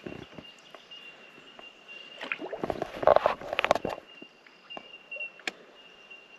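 Bell miner (bellbird) colony calling: a steady chorus of high ringing 'tink' notes. Between about two and four seconds in, a louder cluster of knocks and clatter breaks over it.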